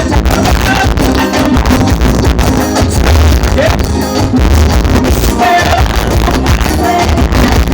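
Forró band music playing loud, with a heavy bass and a steady beat.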